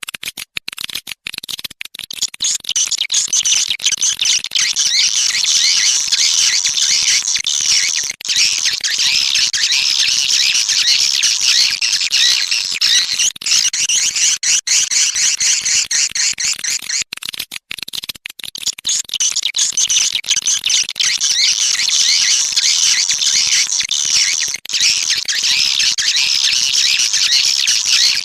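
Recorded swiftlet calls: a dense, continuous twittering of many high, rapid chirps that starts abruptly. This is a lure sound of the kind played in swiftlet houses to draw edible-nest swiftlets in to roost and nest.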